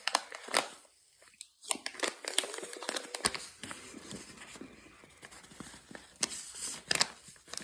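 Packed cornstarch being handled and crumbled: a string of sharp, irregular crackles and crunches.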